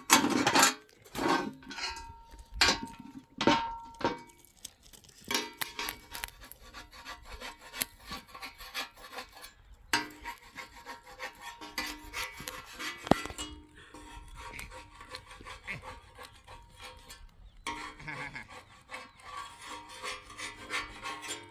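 Rough scraping and rubbing, like wood being worked by hand, with several sharp knocks in the first few seconds and two short pauses later on.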